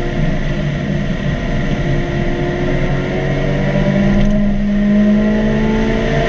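Mazda NC Miata's 2.0-litre four-cylinder engine under way on track, its pitch rising slowly as the car accelerates through the second half.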